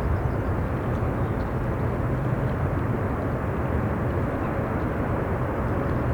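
Steady low roar of a jet airliner's engines, mixed with strong wind rumbling on the microphone.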